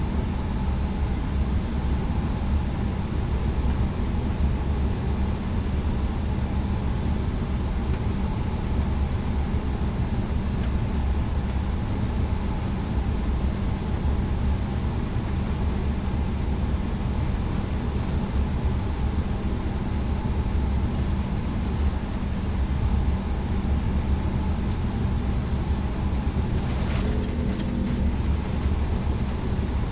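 Airbus A320neo cabin noise with the engines running at a steady low power: an even rumble with a faint hum. A short noise comes near the end.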